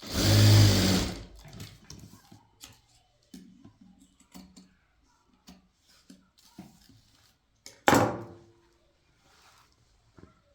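Electric sewing machine running in a short burst of about a second, then scattered small clicks and knocks of handling, with a second sharp, loud sound about eight seconds in.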